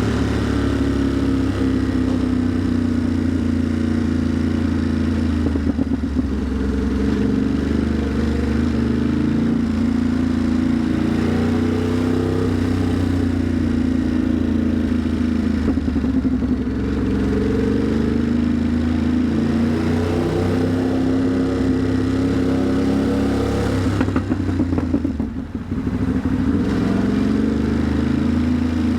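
Ducati Monster's V-twin engine running at low revs while riding slowly in heavy traffic, its note rising and falling gently as the throttle is opened and closed. About 25 seconds in it dips briefly.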